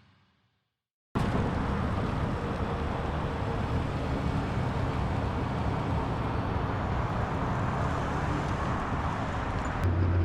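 Steady vehicle noise that starts abruptly about a second in, with a low steady hum joining near the end.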